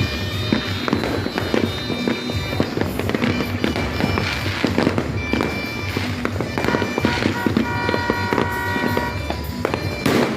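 Fireworks going off in a rapid, continuous crackle of pops and bangs, with music playing along with them.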